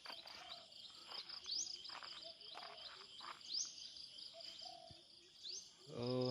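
Insects trilling steadily in a fast high pulse, with birds giving short chirps and calls over it. Near the end a brief low vocal sound, the loudest moment.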